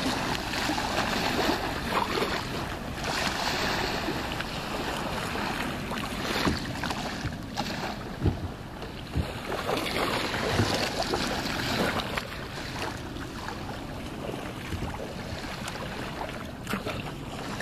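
Wind buffeting the microphone over waves washing on the beach, a steady rushing noise, with a few short knocks near the middle.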